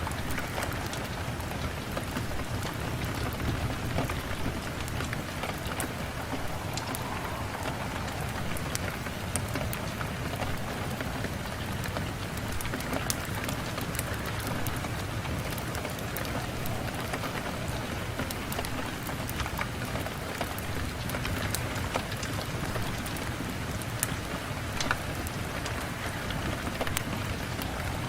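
Steady rain falling on a window, a constant hiss with many scattered sharp ticks of individual drops.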